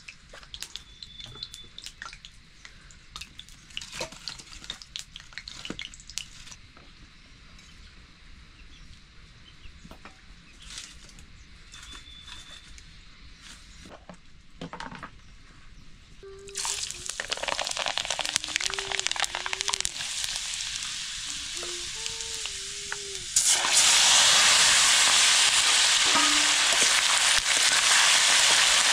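Food frying in hot oil in a pan: after quiet taps and clicks, a sizzle starts suddenly a little past halfway and gets louder a few seconds later.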